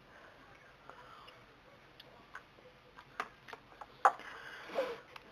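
Faint, scattered light clicks and taps at uneven intervals, with a short rustling hiss a little after four seconds in.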